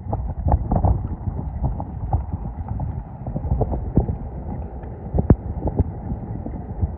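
Footsteps crunching through snow at a walking pace, set against a steady low rush of wind buffeting the microphone.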